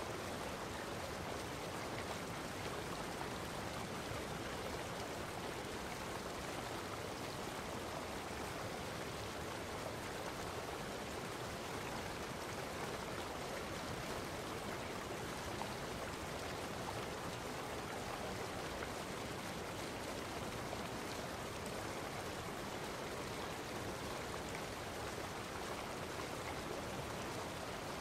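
Running water: an even, unbroken rushing noise.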